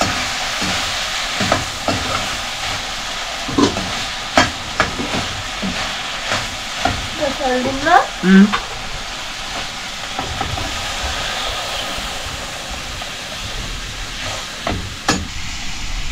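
Chayote curry frying with a steady sizzle in a kadai over a wood fire, with a metal ladle stirring and clicking against the pan now and then. A short wavering pitched sound comes about halfway through.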